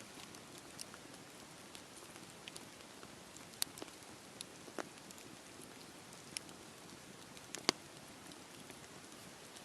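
Steady patter of rain with a campfire crackling: scattered sharp pops, two louder ones about three and a half and seven and a half seconds in.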